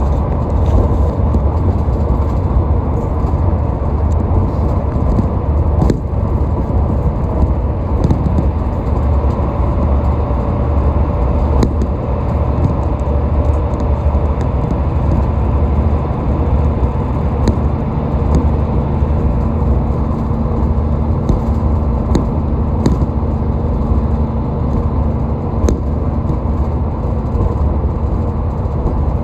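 Steady, deep rumble of car traffic on a highway, the tyre and engine noise of cars driving at speed, with a few faint ticks.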